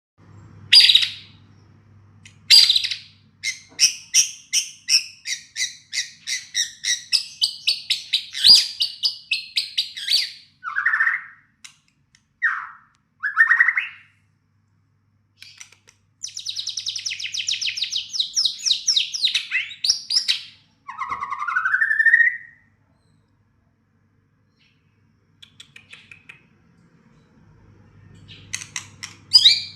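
White-rumped shama (murai batu) singing a varied song: a fast run of repeated notes, then short swooping whistles, a dense chattering passage and a rising whistle, followed by a few seconds' pause before more notes near the end.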